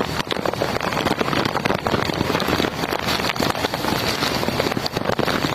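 Storm noise: strong wind and heavy rain, a dense rushing hiss full of crackles, with the wind buffeting the microphone.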